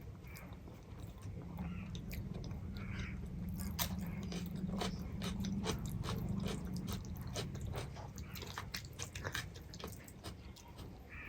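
Close-miked chewing and biting of a rice and dal meal, with many small wet mouth clicks and an occasional crunch.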